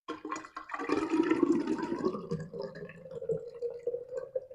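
Thick wood apple drink being poured, starting suddenly, loudest in the first two seconds and then thinning out.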